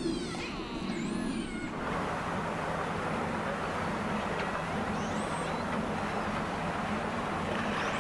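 Killer whale calls heard underwater: rising and falling squealing calls for about the first two seconds, then a steady rushing hiss of water noise over a low hum, with a few faint whistles still coming through.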